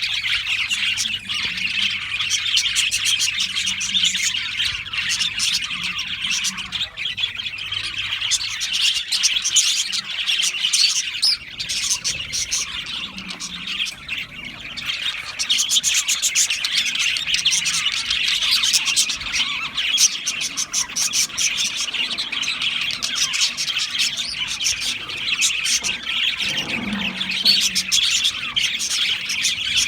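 A flock of budgerigars chirping and chattering without pause, a dense overlapping mix of warbles, tweets and occasional squawks.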